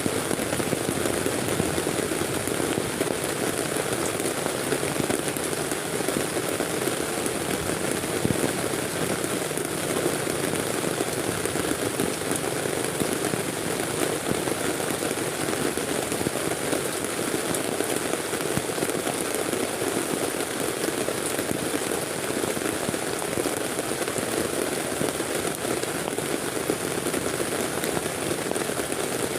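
Heavy rain falling on a tent, a steady, unbroken hiss.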